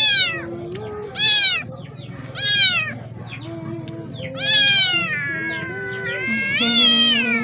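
A baby kitten meowing loudly and repeatedly: three short meows about a second and a quarter apart, then two longer drawn-out meows.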